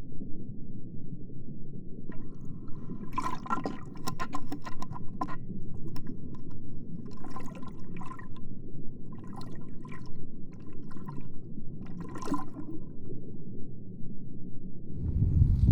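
Water sounds: a steady low rush with several bursts of bubbling crackle, and a louder low surge near the end.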